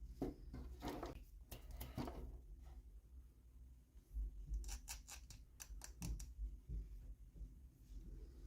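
Small toy packaging being handled and opened: soft rustling, then a quick run of about seven sharp little clicks.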